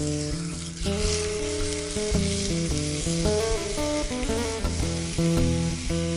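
Food frying in a pan, a steady sizzle that grows louder about a second in, under background music.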